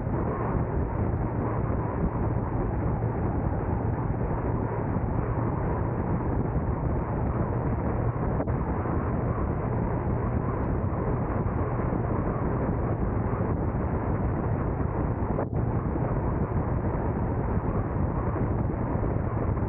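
Steady driving noise of a car on the road: an even rumble with a low steady hum underneath and no change in pace.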